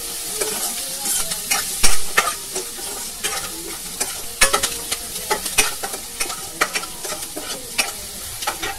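Chopped garlic, onion and ginger sizzling in hot oil in a wok, with a metal spatula scraping and clicking against the pan at an uneven pace as it stirs. The loudest is a single knock of the spatula about two seconds in.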